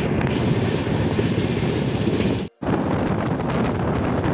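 Running noise of a moving passenger train heard from an open coach doorway: wheels on the rails and wind rushing past the microphone, steady and loud. It cuts out for a split second about two and a half seconds in, then resumes.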